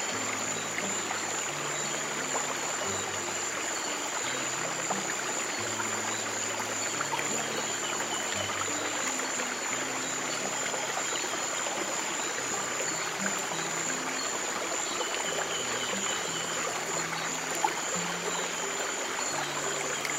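Flowing stream water with slow, soft low piano notes over it, and a steady high thin tone throughout.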